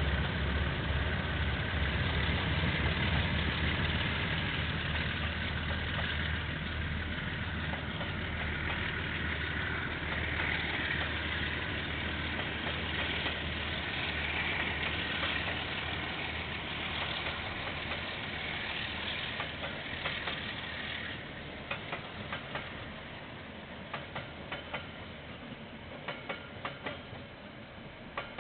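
KiwiRail diesel train passing, heard through a security camera's microphone: a locomotive's engine rumble that fades over the first few seconds, then a steady rolling rush of wagons that gives way about two-thirds through to scattered sharp clicks.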